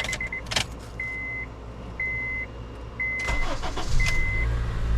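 Honda CR-V's dashboard warning chime beeping about once a second, then its K24 four-cylinder engine cranks and catches about three seconds in and settles into a steady idle after the tune-up.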